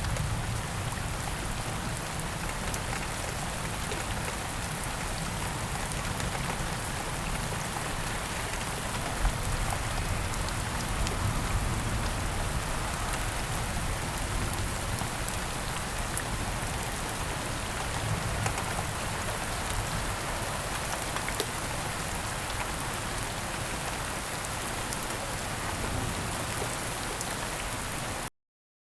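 Steady rain falling: a continuous even hiss with scattered faint drop ticks. It starts abruptly and cuts off suddenly just before the end.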